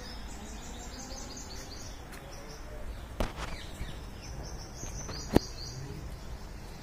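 Small birds chirping in quick runs of high chirps over a steady low background noise, with two sharp clicks, one about three seconds in and a louder one just past five seconds.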